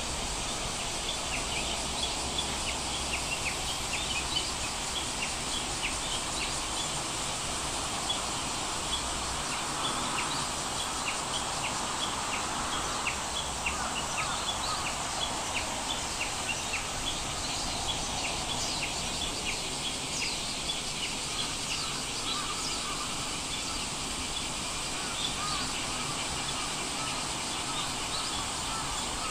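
Nature ambience: birds giving many short, high chirps over a steady background hiss, with a thin high drone.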